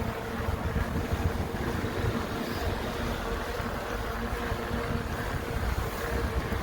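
Wind buffeting the microphone of a moving bicycle rider, a steady rumbling rush with a faint constant hum under it.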